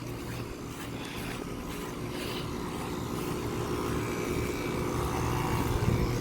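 Central air conditioner condensing unit running: a steady low compressor hum under the whoosh of the condenser fan, growing gradually louder.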